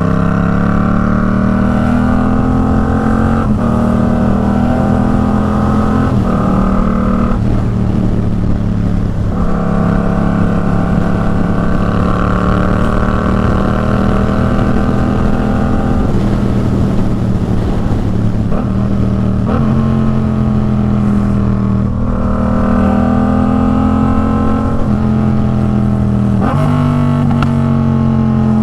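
Yamaha MT-07's parallel-twin engine through an Arashi aftermarket exhaust, accelerating through the gears: the note rises in pitch and drops back at each upshift, again and again.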